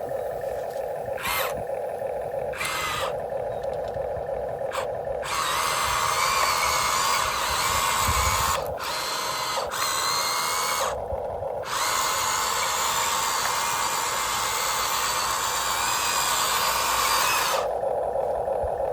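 Huina 1592 RC excavator's electric motors and gearboxes whining as it works: a steady hum, two short motor bursts in the first three seconds, then two long spells of louder, grinding motor running of about five and six seconds, with a brief pause between.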